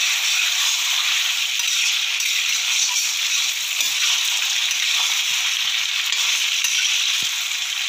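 Chicken pieces and large onion chunks sizzling as they fry in butter and oil in a wok, the onion frying until it softens. A spatula stirring them gives a few faint scrapes and knocks against the pan.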